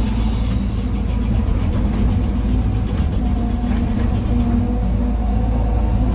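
Heavy diesel engine of an excavator running steadily under load, a deep drone with a slightly wavering pitch and a few faint ticks.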